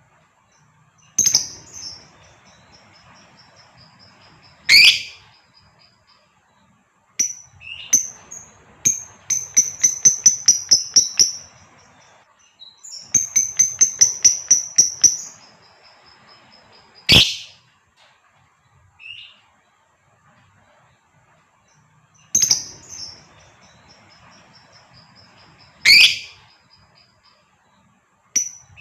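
Female lovebird calling: high, sharp chirps and two fast chattering runs of about eight notes a second, cut by three loud, piercing shrieks. The same sequence starts over near the end, as from a looped recording.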